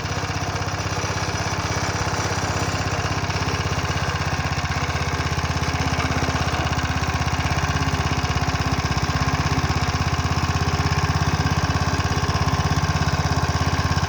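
The 3.5 horsepower engine of a Hayter Hayterette rough-cut mower running steadily just after a first-pull start.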